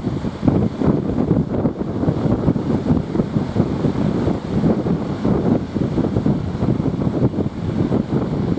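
Strong wind buffeting the microphone: a loud, gusting, fluttering noise, heaviest in the low end, with no clear engine tone beneath it.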